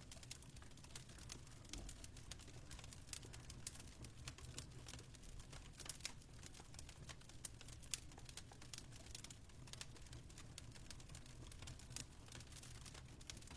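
Faint fireplace crackling: irregular small snaps and pops over a low steady hum.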